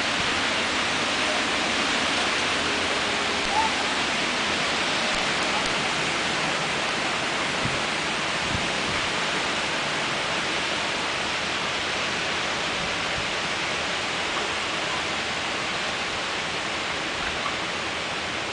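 Windstorm: a steady rushing roar of strong wind, slowly easing a little towards the end.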